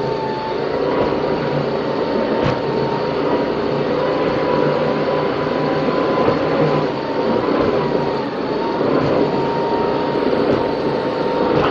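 Race powerboat's engines running steadily at speed, heard onboard: a loud drone with a thin, slightly wavering whine over it, and a single knock about two and a half seconds in.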